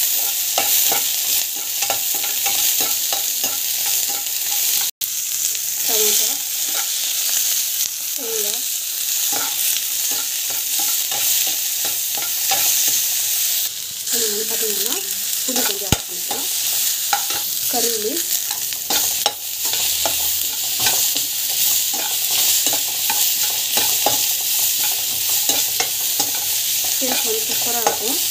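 Onions, garlic and dried red chillies sizzling in hot oil in a black kadai, stirred and scraped around the pan with a perforated steel skimmer ladle, the metal scraping against the pan.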